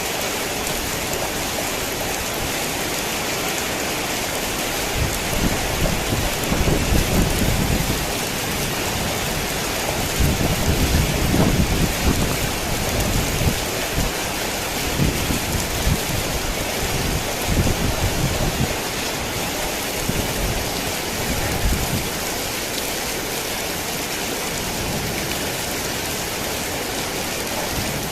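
Steady heavy rain falling, with low thunder rumbling in rolling surges from about five seconds in until a few seconds before the end.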